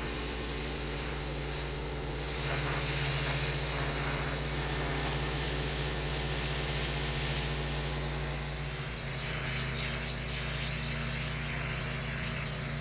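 Pressure washer engine running steadily with the even hiss of high-pressure water spray over it.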